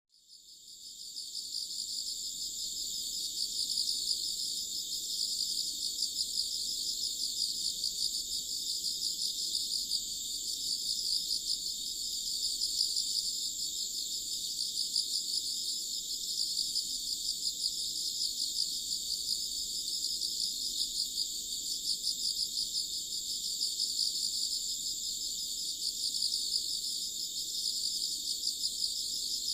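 A steady, high-pitched chorus of chirping insects, such as crickets, fading in over the first couple of seconds.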